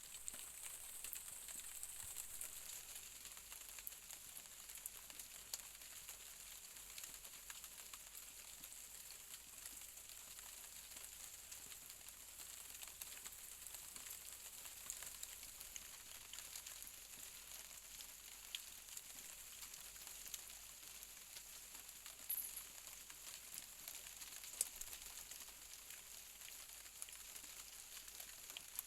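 Rain falling during a night thunderstorm: a faint, steady hiss with scattered drops ticking. No thunder is heard.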